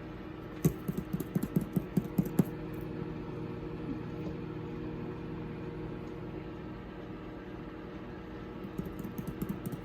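Microwave oven running with a steady hum, while it heats food. A quick run of clicks or taps comes about a second in and lasts a couple of seconds, and another comes near the end.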